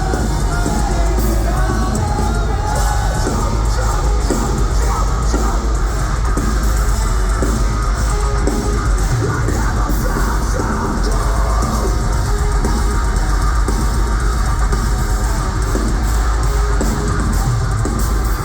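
Live metalcore band playing at full volume: distorted guitars and bass, a pounding drum kit and yelled vocals, with a steady, heavy low end.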